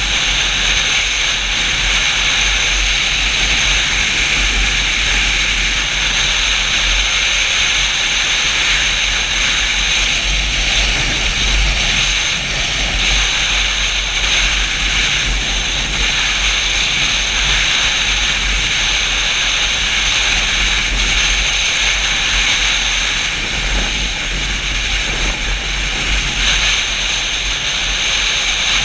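Steady wind rush and low buffeting on the microphone of a moving Yamaha FZ-07 motorcycle, with the ride's engine and road noise underneath.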